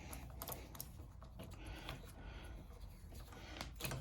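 Screws being tightened with a hand screwdriver on a push mower's engine: scattered small metal clicks and scrapes, with a louder cluster of clicks near the end.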